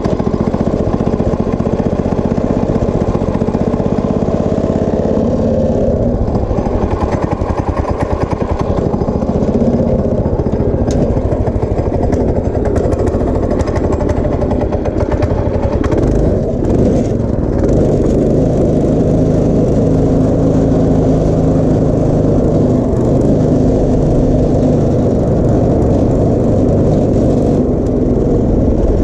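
Go-kart's small engine running as the kart is driven, its pitch rising and falling with the throttle.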